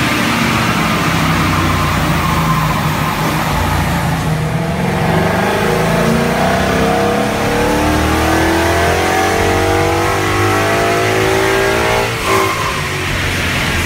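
Car engine accelerating hard: the pitch climbs steadily for about seven seconds, then falls away suddenly near the end as the throttle lifts or the gear changes.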